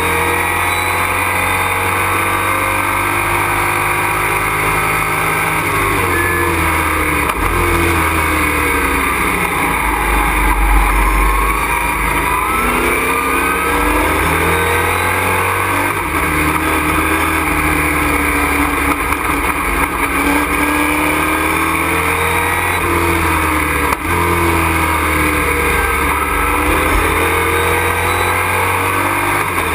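Race truck engine heard from inside the cockpit at racing speed, its revs climbing and dropping again and again as it is driven through the gears around the track.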